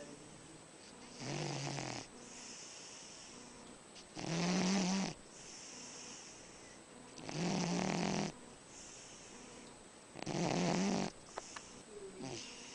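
Dog snoring in a steady rhythm: four loud, low snores about three seconds apart, each lasting about a second, with a softer hiss of breath between them.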